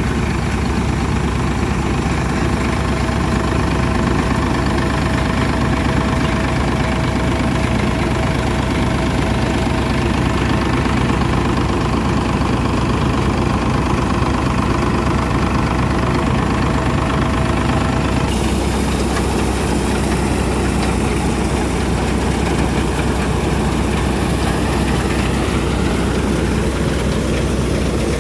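Farmtrac tractor's diesel engine running steadily, a dense low-pitched drone that shifts abruptly in tone about two-thirds of the way through.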